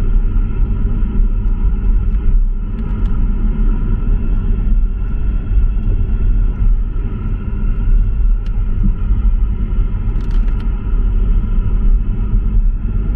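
Car driving in the rain: a steady low rumble of road and engine noise, with a few faint ticks.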